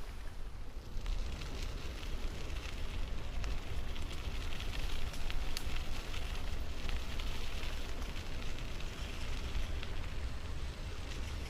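Rain and wet road noise heard while riding a bicycle in the rain: a steady hiss scattered with small ticks of raindrops and tyre spray, over a low rumble of wind on the microphone.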